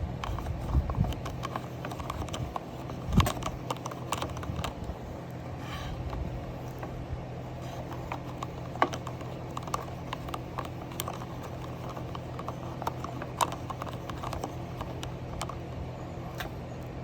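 Irregular light clicks and knocks, like small hard objects being handled, over a steady low hum. One sharper knock comes about three seconds in.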